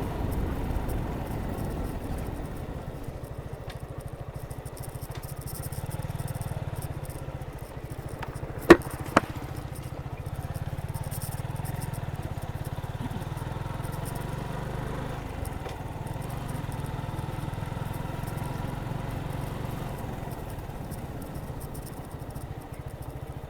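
Suzuki Gixxer 155 motorcycle riding along, its engine and road noise steady. Two sharp knocks about half a second apart come about nine seconds in.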